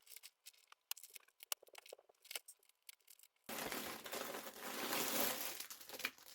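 Scattered light clicks and taps. About three and a half seconds in, a continuous crinkling and rustling starts as packaging is handled and opened.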